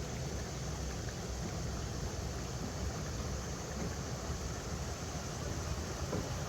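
River water rushing over rocks: a steady, unbroken noise with a heavy low rumble.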